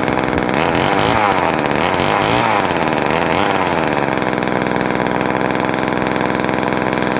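Small two-stroke engine of a 1977 Poulan Micro chainsaw running. Its pitch rises and falls a few times in the first few seconds, then holds steady. The owner says the carburetor needs setting up because the engine hunts between high and low speed.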